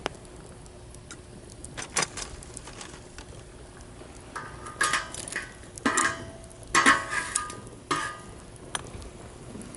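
Clattering knocks and clinks at a campfire in a metal fire stand, coming in clusters about halfway through, several of them with a brief metallic ring, over a steady low hiss.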